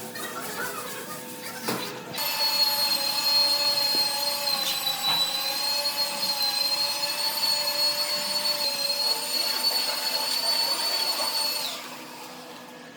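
An electric power tool running with a steady high-pitched whine for about ten seconds. It starts about two seconds in and cuts off shortly before the end.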